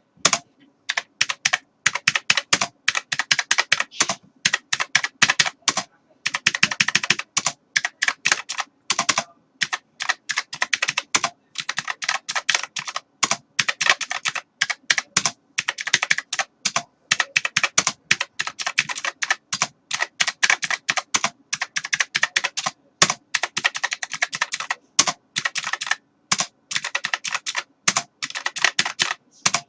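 Typing on a computer keyboard: rapid runs of key clicks in bursts, with short pauses between them.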